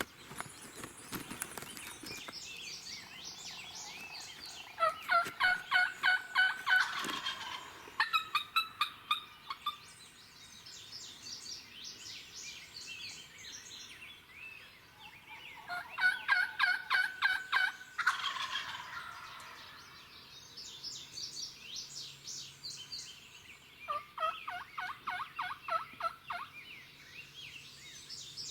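Wild turkey gobbling at dawn: four loud rattling gobbles of about two seconds each, roughly 5, 8, 16 and 24 seconds in. Songbirds chirp between them.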